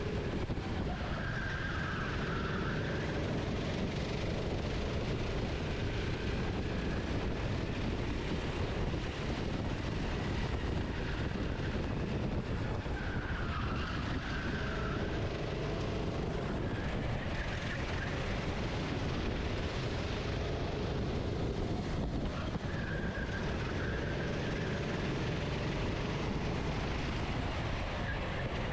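Racing kart engine heard from the onboard camera, its revs rising and falling every few seconds through the corners, over a steady low rumble.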